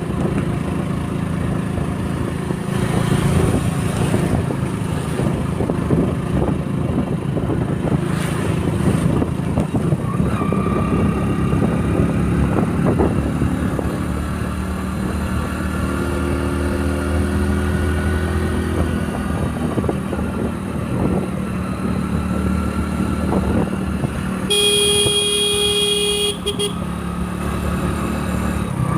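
Motorcycle engine running steadily under way, with road and traffic noise. Near the end a vehicle horn sounds for about two seconds.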